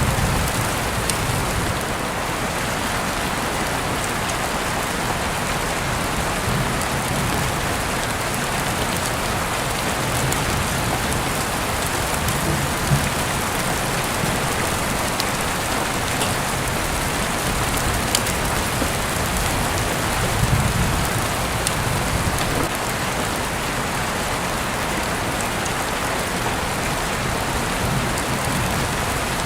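Heavy rain falling steadily, with scattered sharper drips and taps among the even patter and a faint low rumble now and then.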